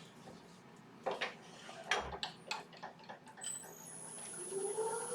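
Several light clicks and knocks as the lathe's tailstock is brought up and set against the wood. About four seconds in, the wood lathe starts: a steady high whine comes in, joined by a motor tone rising in pitch as it spins up.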